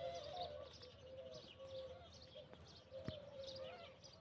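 Faint birdsong: a low, wavering cooing call with many short high chirps over it, and one sharp click about three seconds in.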